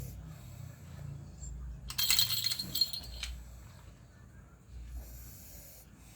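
Dog snoring in its sleep: slow, low rumbling breaths with hissy inhales. About two seconds in, a brief clinking, jingling rattle, the loudest sound here, lasts about a second.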